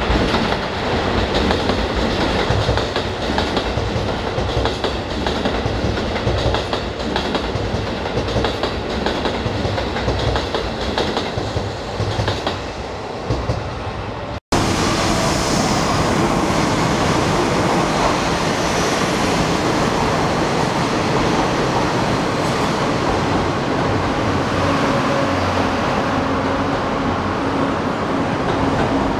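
A passenger train rolling along the tracks with wheel clatter. Halfway through, the sound changes to the Cassiopeia sleeper's E26-series coaches rolling along a station platform, a steady rumble with faint tones.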